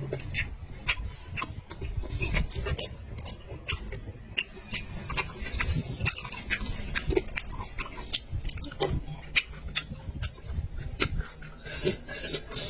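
Close-miked chewing of a big mouthful of meat, with wet smacking clicks about twice a second.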